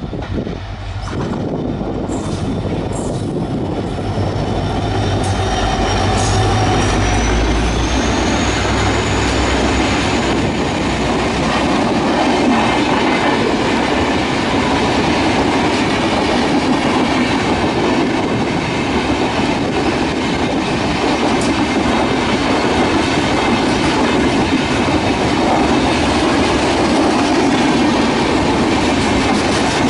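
An express train passing at speed. The WDP-4D diesel locomotive's low engine rumble fades over the first ten seconds or so, and the coaches keep rolling by with a steady clatter of wheels over rail joints. A thin high wheel squeal rises briefly near the start.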